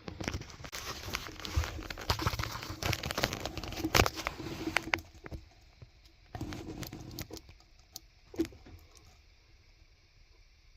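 Close rustling and crackling with sharp clicks and knocks, dense for about five seconds, then a few shorter bursts.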